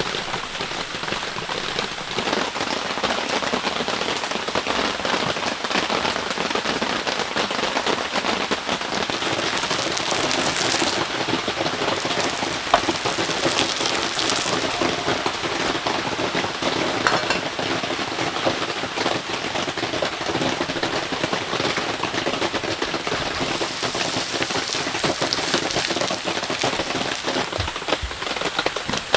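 Heavy rain falling steadily, a dense hiss of drops with many sharper individual drips.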